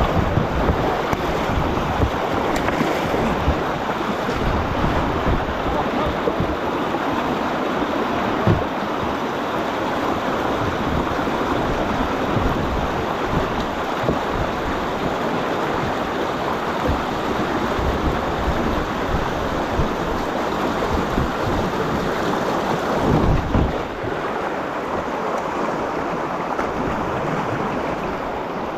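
Steady rush of moving river water around a kayak, with wind buffeting the microphone in low rumbles.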